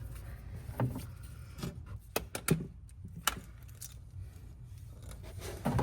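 Scattered light clicks and taps from hand tools and parts being handled, coming at irregular moments over a low background.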